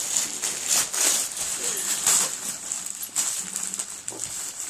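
Wrapping paper rustling and tearing as layers of a present are ripped off, with several louder rips along the way.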